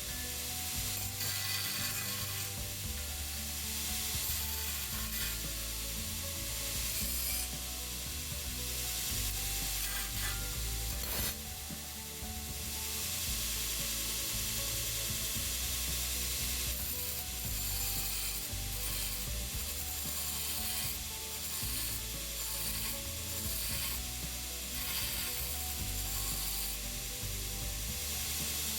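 Electric drill boring holes through steel angle iron, the bit grinding and chattering in stretches that start and stop.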